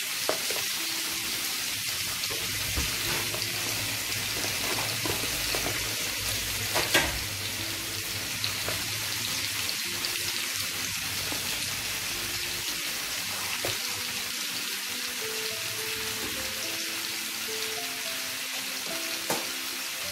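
Strips of chicken breast sizzling steadily in a frying pan, with a sharp click about seven seconds in.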